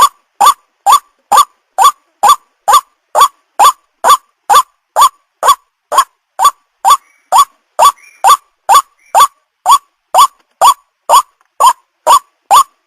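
White-breasted waterhen (ruak-ruak) call: a short rising note repeated evenly about twice a second without a break. It is a lure call for drawing waterhens to a trap.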